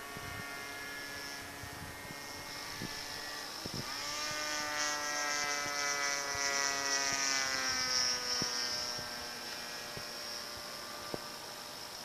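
The 20cc VVRC gas engine of a radio-controled Yak 54 model plane running in flight: a steady buzzing drone that grows louder about four seconds in as the plane passes, its pitch sliding slowly down, then fades again.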